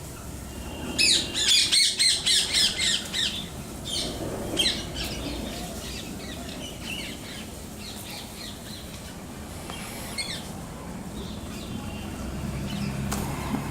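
Birds calling: a loud, fast run of harsh repeated calls about a second in, roughly three or four a second, then fainter scattered calls.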